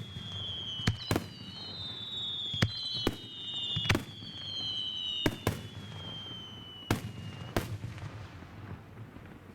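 Fireworks display: about nine sharp bangs of bursting shells, with several high whistles gliding slowly down in pitch until about two-thirds of the way through. The bangs stop about 8 s in.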